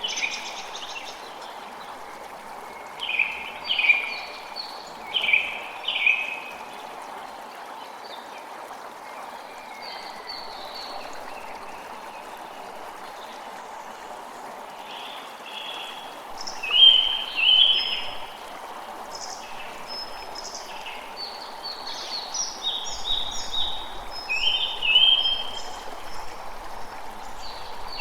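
Creek water flowing in a steady rush, with songbirds chirping in short runs of quick calls: a few seconds in, again a little past halfway, and more thickly near the end.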